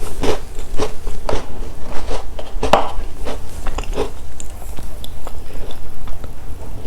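Close-up chewing of a crunchy Milka chocolate snack: a run of crisp crunches, about two a second, that turn softer after about four seconds.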